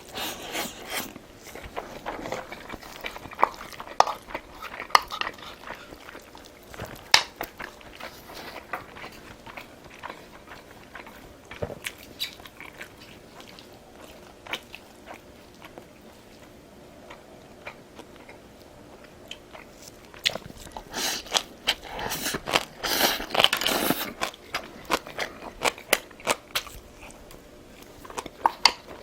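A person eating close to the microphone: bites, chewing and crunching with sharp little clicks, busiest and loudest for a few seconds towards the end.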